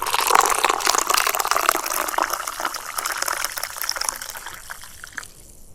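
Hot coffee pouring from a French press into a cup, a steady liquid stream that thins and dies away about five seconds in.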